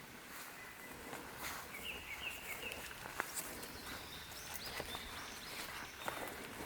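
Wild birds calling: a quick run of chirps about two seconds in, then higher whistled notes a little later. Footsteps crunch and tick on the wet trail throughout.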